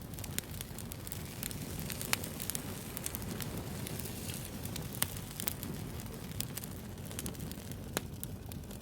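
Wood bonfire crackling: many irregular small pops and snaps over a steady low rush of burning, with a few sharper pops about two, five and eight seconds in.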